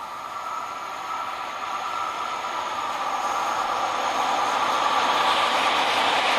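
Locomotive-hauled passenger train approaching on electrified track, the rush of wheels on rail growing steadily louder as it nears, with a faint steady whine fading out in the first few seconds.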